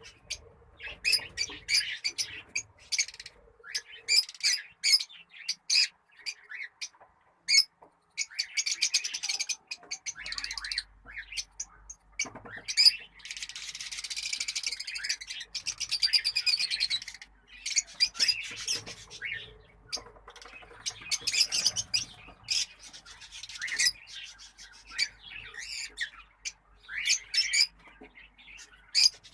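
Many caged birds chirping and squawking in rapid, overlapping high calls, busiest about a third of the way in.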